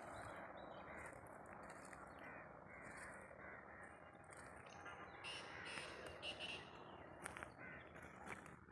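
Birds calling in woodland, with several short high calls a little past the middle, over a steady low rustling hiss.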